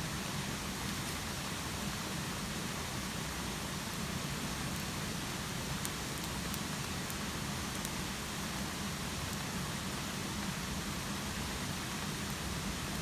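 Steady rain falling, an even hiss, with a few faint sharp ticks now and then.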